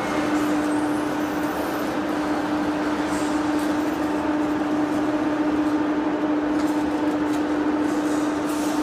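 Steady machinery hum: a constant low-pitched tone over an even noise, unchanging throughout.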